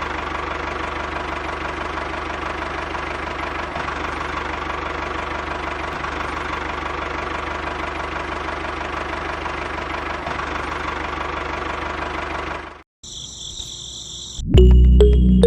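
A small motor running steadily, then cutting off abruptly near the end. A brief high tone follows, and music begins just before the end.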